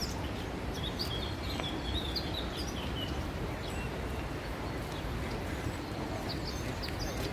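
Small birds chirping, in short high notes mostly in the first three seconds and again near the end, over steady outdoor background noise.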